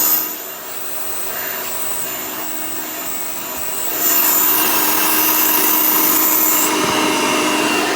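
Hoover Elite upright vacuum running with its tool converter attached, its motor whining steadily while air leaks around the poorly sealed converter. The sound drops in level just after the start and comes back up louder about four seconds in.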